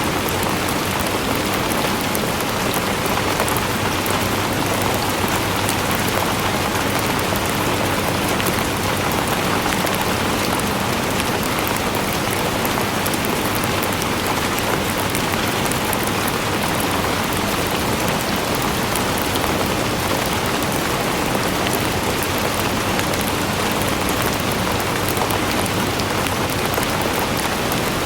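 Steady rain falling on a surface, an even hiss with many fine drop ticks and no change in strength.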